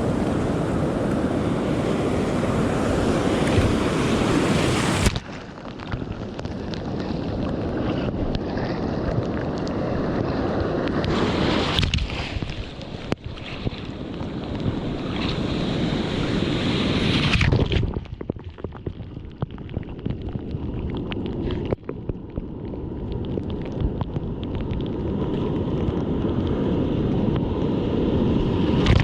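Surf breaking and water rushing in a heavy shore break, with wind buffeting the microphone. The sound changes abruptly several times.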